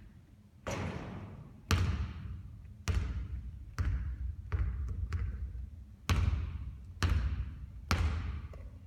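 A basketball bouncing hard on a court about nine times, roughly a second apart and unevenly spaced, each bounce echoing briefly.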